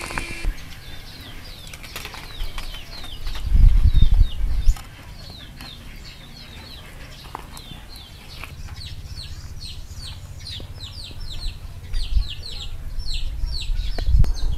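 Small birds chirping over and over in short, high, falling chirps that come thicker in the second half. A loud low rumble comes about four seconds in.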